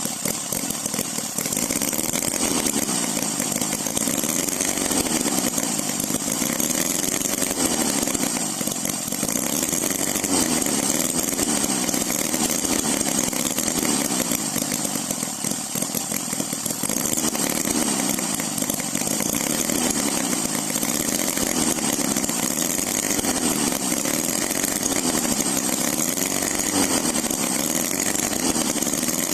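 OKMO H75 Holt model engine running, its speed drifting slowly up and down as the throttle is worked.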